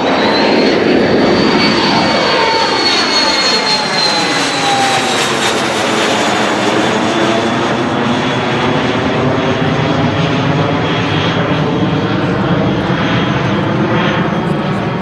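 A 328 regional airliner flying past on its landing approach, its engine sound loud and steady, with the engine tones falling in pitch during the first few seconds as it passes.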